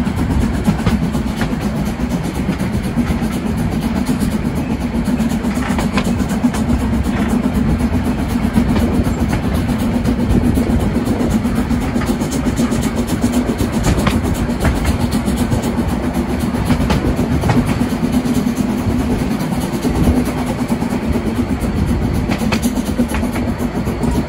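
Train running along the track: a steady rumble with a low hum and irregular wheel clicks.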